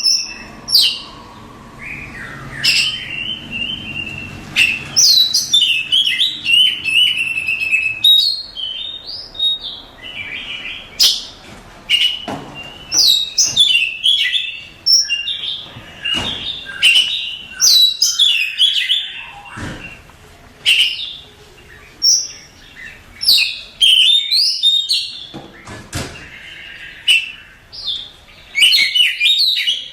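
Oriental magpie-robin (kacer) singing: a continuous, varied run of clear whistles, quick trills and sharp chirps in short phrases with brief pauses between them.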